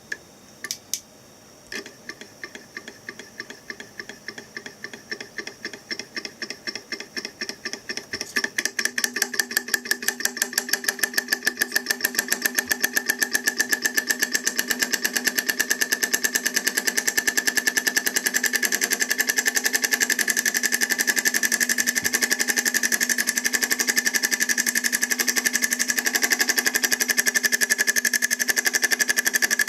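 Homemade solenoid-driven motor built from hard disk drive parts, clicking in a quick even rhythm that picks up speed as it starts. About 8 seconds in it gets louder and settles into a fast, steady run.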